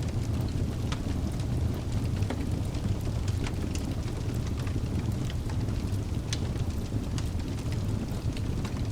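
Wood fire burning in a fireplace: a steady low rumble of the flames with scattered sharp crackles and pops from the burning logs, several a second, one louder pop about six seconds in.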